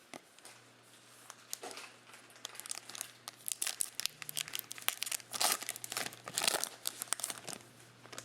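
Plastic-foil trading card pack wrapper crinkling and being torn open, a dense run of crackles that builds and is loudest near the end.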